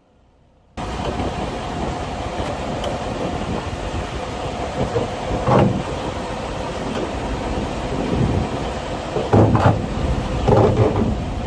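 Semi-truck driving down the road, heard as steady road and engine noise from inside the cab, with a few brief thumps and rattles from bumps.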